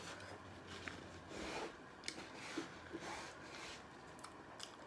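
Faint food-handling and eating sounds at the table: soft rustles and scrapes with a few small sharp clicks.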